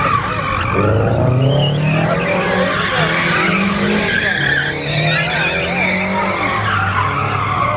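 Car spinning its tyres at high revs in a street takeover: continuous tyre squeal over a hard-working engine whose revs rise and dip.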